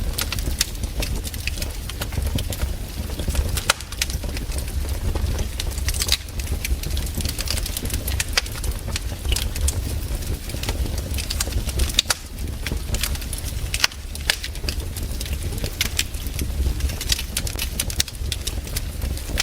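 Wood campfire burning, with frequent irregular sharp crackles and pops over a low steady rumble.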